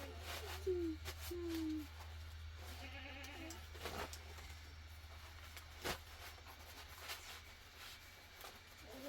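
Small livestock bleating, three short calls falling in pitch in the first few seconds, over a steady low hum, with a few sharp clicks later.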